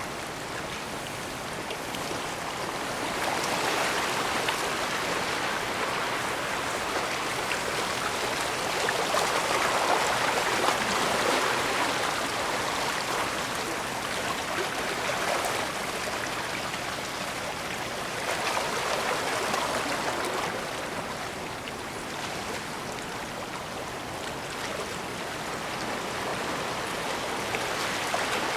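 Small bay waves washing against the shore: a continuous rush of water that swells and eases every few seconds.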